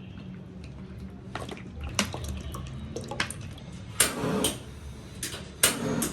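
Water splashing in a sink with scattered light knocks, and two louder splashes in the second half.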